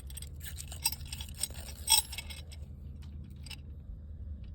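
Light metallic clicks, clinks and scrapes from handling a new exhaust tip while trying to peel something off it, with a sharper clink about two seconds in. A steady low rumble runs underneath.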